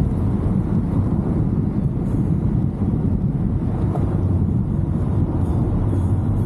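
2023 Chevrolet Camaro SS's 6.2-litre V8 running at a steady speed on the road, a low even drone with road rumble and wind noise on the microphone.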